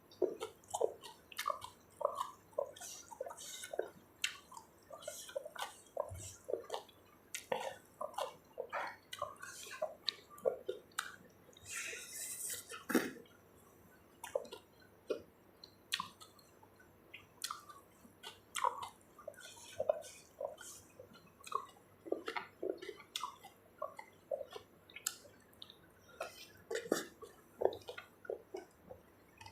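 Close-up wet chewing and lip-smacking of someone eating spicy Thai seafood papaya salad, a steady run of irregular short mouth clicks and smacks. About twelve seconds in there is a longer sucking slurp lasting about a second.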